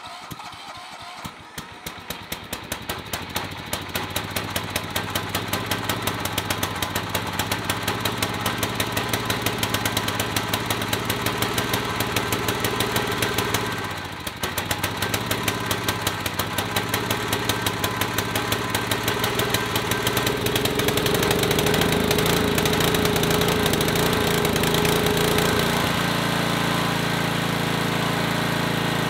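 1975 Sears lawn tractor's small gasoline engine starting and running on choke with a regular firing beat that builds up over the first few seconds. It falters briefly about halfway through, then picks up and runs faster and steadier near the end, still running rough.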